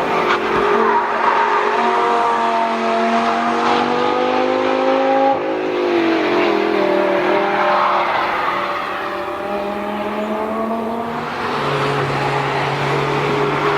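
Lamborghini Gallardo LP570-4 Superleggera's 5.2-litre V10 accelerating hard, its pitch climbing, dropping with an upshift about five seconds in, then climbing again before falling to a lower, steadier note near the end.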